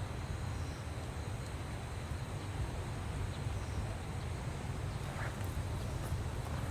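Steady outdoor ambience: a continuous low rumble under an even hiss, with a few faint ticks.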